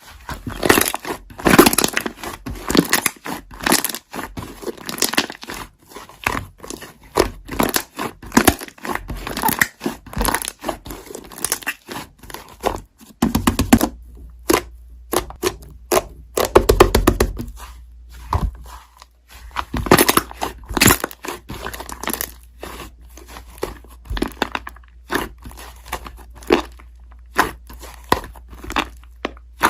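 Hands pressing, poking and stretching slime, making a dense run of irregular sticky clicks and crackles, with short pauses about halfway through.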